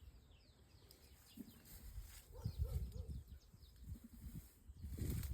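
Birds calling: short, high, falling chirps repeat throughout, and a lower three-note wavering call comes about halfway through, over an uneven low rumble.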